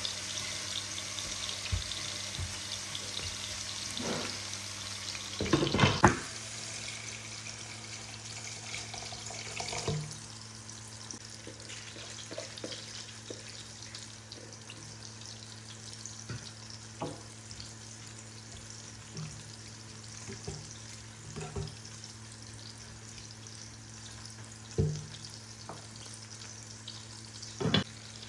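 Home kitchen cooking sounds: a steady hiss of sizzling or running water for about the first six seconds, ending in a clatter of knocks. Then a low steady hum with scattered light knocks and clicks.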